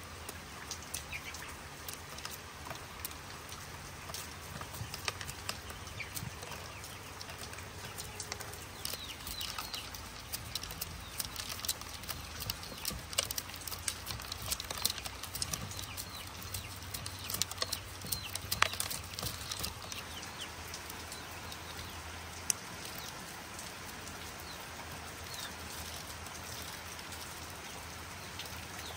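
Rain with many scattered drops tapping over a steady hiss; the tapping is busiest in the middle stretch and thins out near the end.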